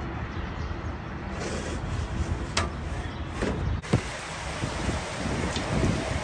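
Steady wind and rain noise during a rainstorm, with a few sharp clicks and an abrupt change in the sound a little under four seconds in.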